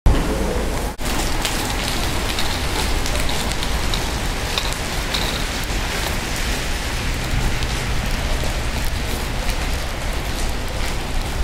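Rain falling on wet pavement: a steady even hiss with scattered drop ticks over a low rumble.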